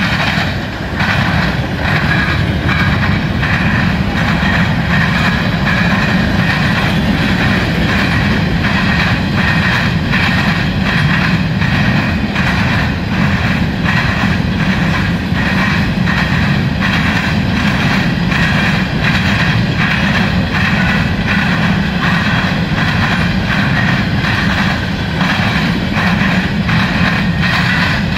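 Freight train's covered hopper cars rolling past: a steady rumble of steel wheels on rail, with a regular rhythm of clicks as the wheels cross rail joints.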